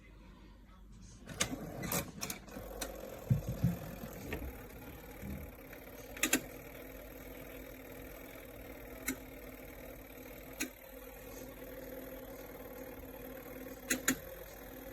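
Twin-tub washing machine's motor running with a steady hum that starts about a second and a half in, with a few knocks near the start and scattered clicks after.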